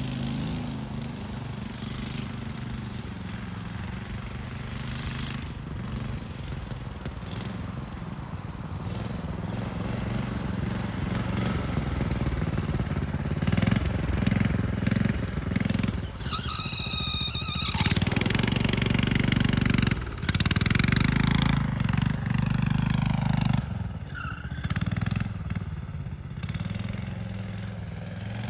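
Single-cylinder Honda GX390 four-stroke engine on a minibike running as the bike is ridden, louder through the middle as it revs up and then dropping back toward the end.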